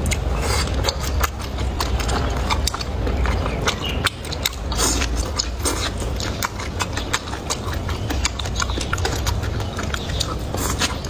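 A person eating close to the microphone: chewing and smacking with many quick, irregular wet clicks, over a steady low hum.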